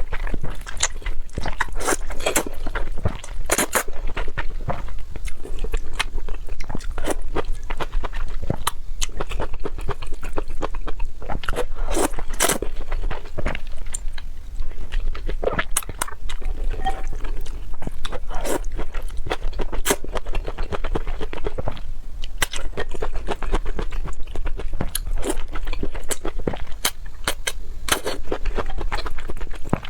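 Close-miked eating sounds: chewing and crunching of food, with many short, irregular clicks throughout.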